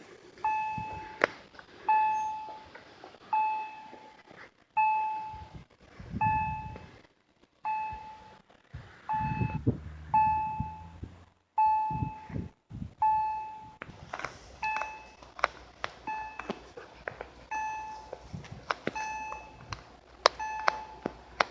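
Railway level-crossing warning bell ringing at an even pace, a little slower than one ding a second, each ding fading before the next. Low rumbles and sharp clicks come and go under it from about six seconds in.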